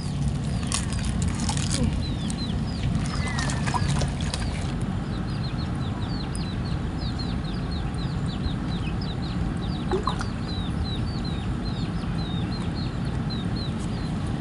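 Birds peeping: many short, high calls that fall in pitch, repeating several times a second from about five seconds in, over a steady low background rumble. A few sharp clicks sound in the first four seconds.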